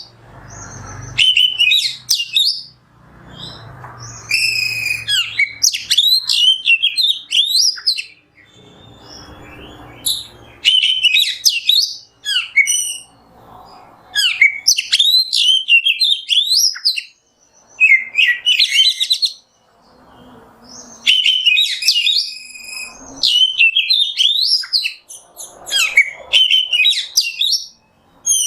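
Oriental magpie-robin (kacer) singing in repeated bursts of quick, varied whistles and chirps, each phrase a second or two long with short pauses between.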